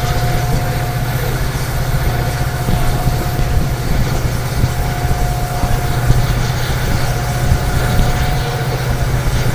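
Steady low hum of a WDP4 diesel locomotive's EMD two-stroke engine, with a thin high tone held over it.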